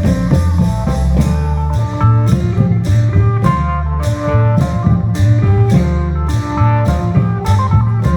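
Isan klong yao long-drum troupe music: a fast melody line over deep drums, with a steady beat of cymbal-like strokes about twice a second.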